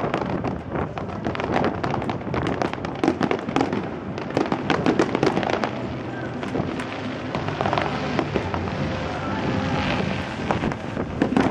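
A fireworks display: a dense, continuous run of bangs and crackles, many cracks a second, with no pause.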